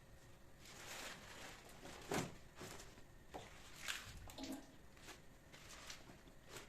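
Quiet kitchen handling sounds: light rustling and a few small knocks and clicks, the loudest a sharp knock about two seconds in.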